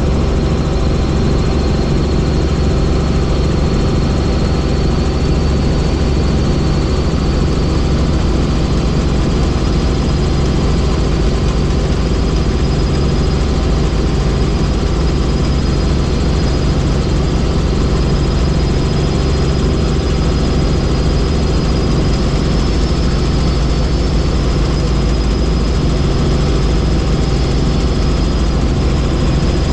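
Helicopter engine and rotors running steadily in flight, a dense low drone with a thin high whine over it.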